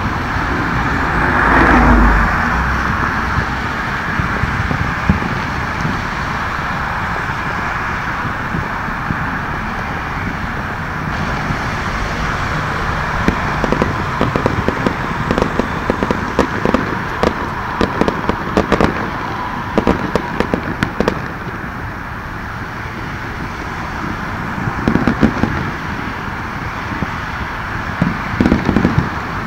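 Distant fireworks and firecrackers popping and crackling across the city, in scattered rapid runs that are thickest in the middle and again near the end, over a steady background hiss of traffic.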